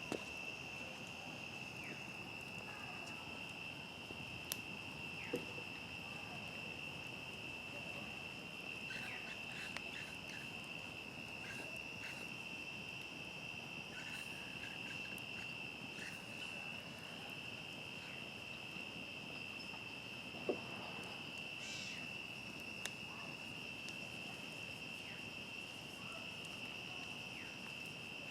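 Crickets trilling steadily in a continuous high chorus, with scattered soft crackles and a few sharper pops from a burning campfire.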